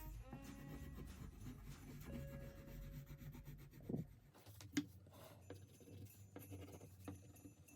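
Crayon tip scratching on paper in quick, repeated colouring strokes, faint, with two light taps about halfway through.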